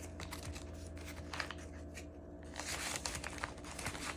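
Paper banknotes and envelopes rustling and crinkling as they are handled, a scatter of faint soft rustles with a short lull about two seconds in.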